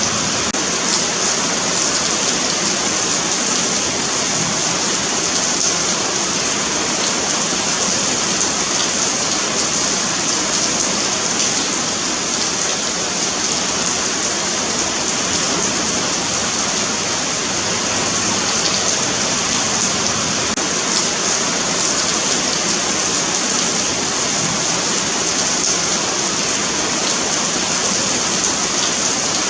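Steady rain falling on a paved sidewalk, a dense even hiss of countless drops spattering on the pavement.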